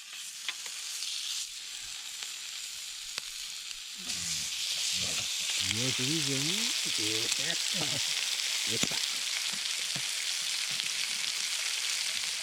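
Food sizzling as it fries in a pan, a steady hiss that grows louder about four seconds in.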